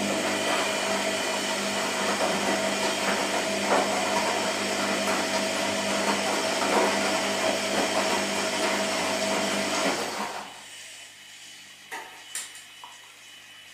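Washing machine running loudly with a steady whine for about ten seconds, then cutting down to a low hum, with two short clicks near the end.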